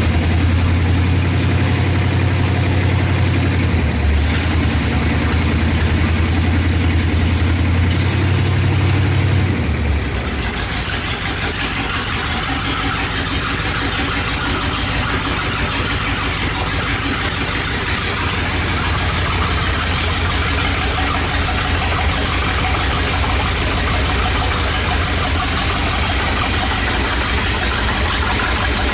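1970 Plymouth Superbird's V8 engine idling. About ten seconds in, the idle drops to a lower, evenly pulsing beat.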